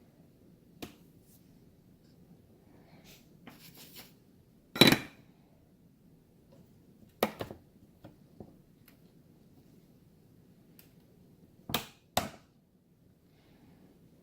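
Scattered sharp clicks and knocks of small parts and tools being handled, with some rustling; the loudest knock comes about five seconds in, and a quick pair near the end.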